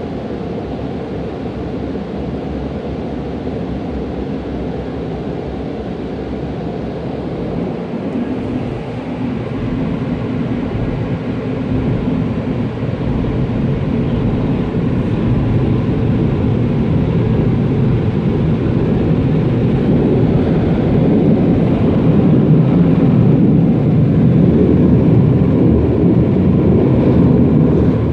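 Automatic car wash machinery running with a steady, low rumble that grows gradually louder.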